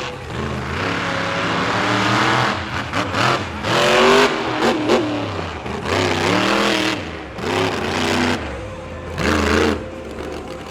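Monster truck engine revving hard, its pitch repeatedly rising and falling as the throttle is blipped and held during a freestyle run.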